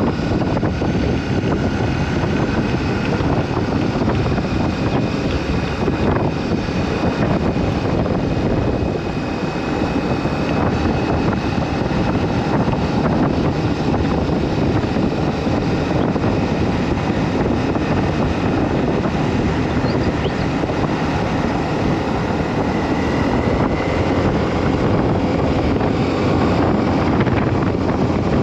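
Wind buffeting the microphone while riding a Honda CB250E motorcycle, with its engine running underneath. Faint whining tones shift in pitch as the speed changes.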